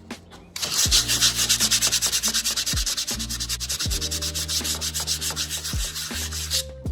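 Sandpaper sanding a wooden board in fast, even, scratchy strokes. It starts about half a second in and stops just before the end.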